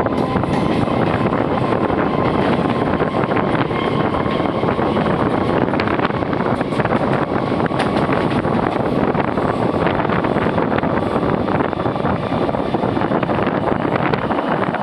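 Two EMU commuter trains running side by side at speed, heard from the open doorway of one: a steady rumble of wheels on rails, dotted with frequent small clicks, and wind buffeting the microphone.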